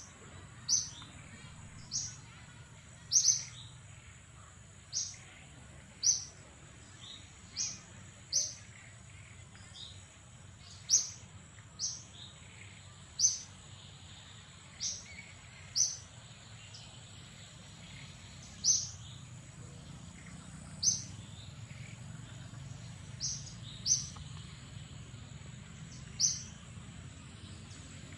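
Short, sharp, high-pitched animal chirps repeated about once a second, over a steady thin high whine.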